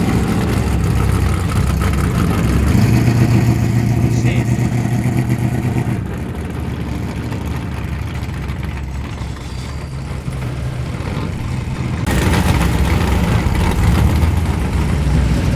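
Muscle car V8 engine running loud at idle, a deep steady note the onlooker calls "music". The tone and level shift abruptly about six and again about twelve seconds in.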